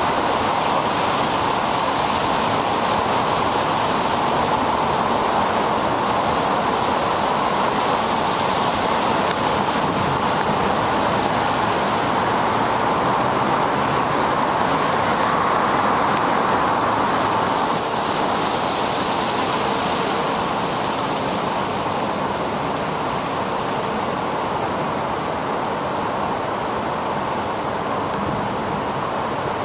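Steady rushing noise of riding a bicycle through traffic on wet streets: tyre hiss and passing road traffic. It eases slightly after about 18 seconds.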